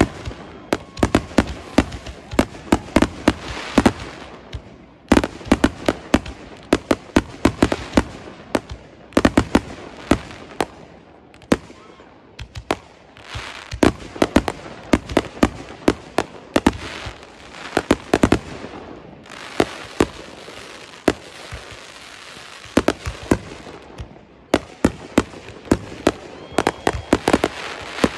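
Aerial fireworks bursting: rapid volleys of sharp bangs in runs of a few seconds, with short lulls between the runs.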